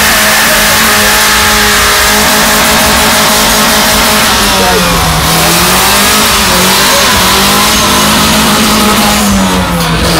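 Ford Scorpio engine held at high revs while its rear tyres spin in a smoky burnout and donuts. The revs hold steady, then dip and rise several times from about four seconds in.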